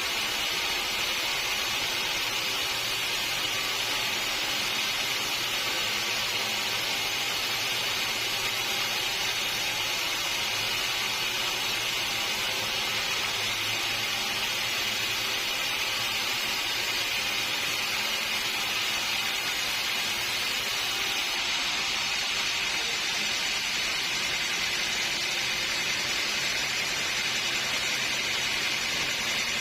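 Sawmill blade cutting steadily through a redwood log, a constant hissing mechanical noise with a faint machine hum beneath, unchanged throughout.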